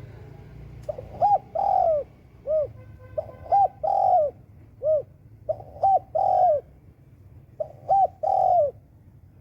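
A dove cooing in four repeated phrases about two seconds apart, each two or three short notes followed by a longer falling note. Faint high chirps from small birds are heard behind it.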